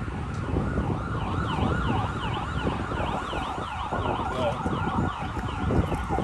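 Emergency vehicle siren in yelp mode: a rapid rising-and-falling wail, about three sweeps a second, over wind rumble on the microphone.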